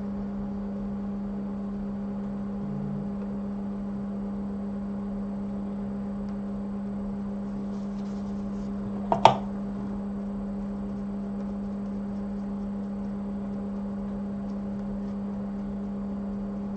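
A steady low electric hum from the workbench, unchanging throughout, with one short sharp click or tap about nine seconds in.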